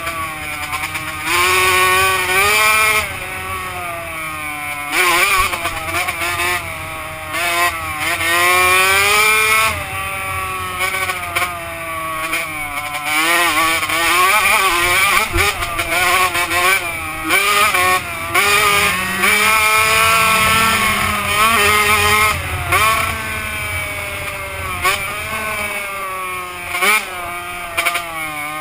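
Two-stroke motocross bike engine revving hard and easing off over and over, its pitch climbing and falling in repeated waves as the rider rides and works the throttle.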